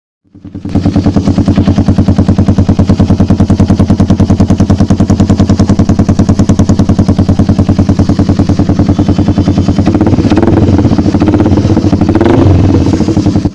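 Yamaha R15 V3's 155 cc single-cylinder engine idling through an aftermarket slip-on exhaust, a loud, rapid and even exhaust pulse. Near the end the rider blips the throttle briefly, and the pitch rises and falls.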